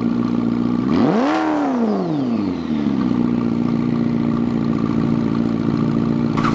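Car engine idling, with one quick throttle blip about a second in: the revs rise and fall back to idle within about a second and a half, then it idles steadily.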